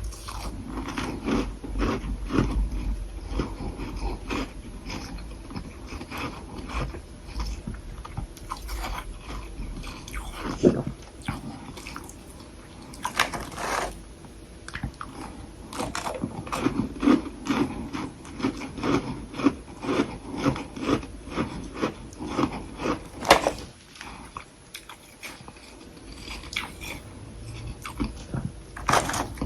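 Soft humidifier-grown freezer frost sticks being bitten and chewed: a dense run of crunches with sharper, louder bites every few seconds and a short lull about three quarters of the way through.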